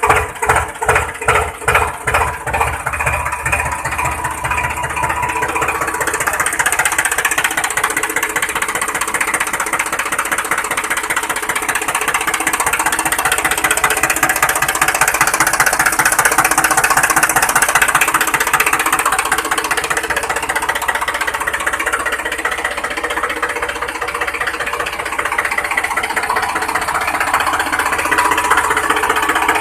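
Tractor engine starting up: slow, separate chugs that quicken over the first three seconds into a steady, fast-running rhythm that holds to the end.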